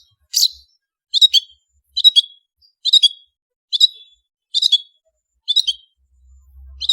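Long-tailed shrike (cendet) calling: a short, sharp, high chirp repeated about once a second, eight times, some calls with a doubled note.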